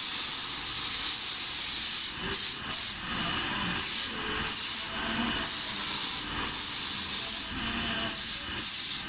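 Loud, high hiss, like a jet of air or spray, cutting in and out: longer stretches of about a second alternate with a few short spurts and brief quieter gaps.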